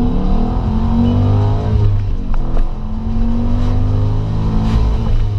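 Cadillac CTS-V's 6.0-litre LS2 V8 accelerating hard, heard from inside the cabin. The engine note rises, dips at a gear change on the T56 six-speed manual about two seconds in, then climbs again and eases off near the end.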